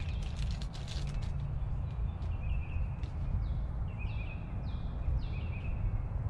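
Songbird singing, with short chirps and several quick downward-slurred whistles, over a steady low rumble. Light crackling of a plastic packet of crimp connectors being handled in the first second or so.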